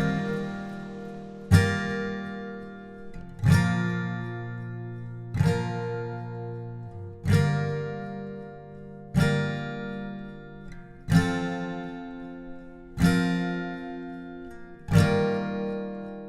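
Background music: an acoustic guitar strumming single chords about every two seconds, each left to ring out and fade before the next.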